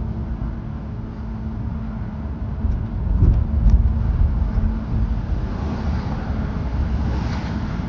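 Steady low rumble of vehicle and road noise, with a few short knocks about three seconds in and a rushing swell near the end.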